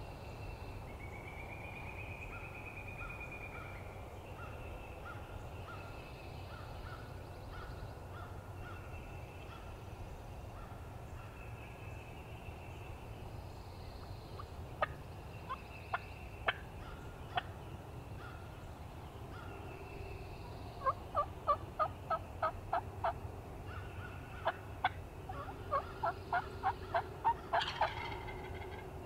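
Wild turkey yelping in runs of about eight short notes, roughly four a second, with a louder gobble-like burst near the end. Songbirds sing in the first few seconds.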